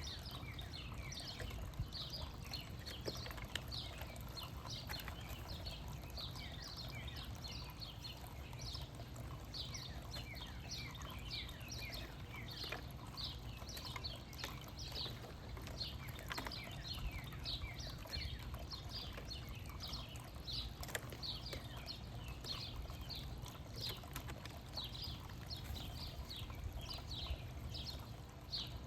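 A flock of small birds chirping continuously: many short, quick downward-sweeping chirps overlapping, over a steady low rumble.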